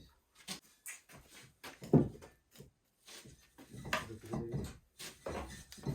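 Irregular knocks, clunks and scraping of bricklaying work on a brick fireplace, with the loudest thud about two seconds in.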